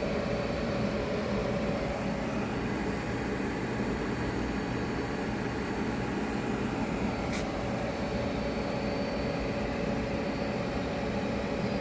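Takamaz J-Wave Plus CNC lathe and its gantry loader running with a steady mechanical hum. A thin high-pitched whine sets in just after the start and stops near the end, while the loader arm is jogged in. There is a single sharp click about seven seconds in.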